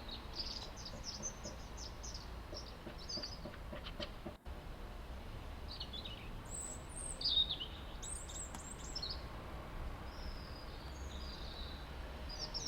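Small songbirds chirping and singing in short phrases throughout, over a steady hiss of light rain.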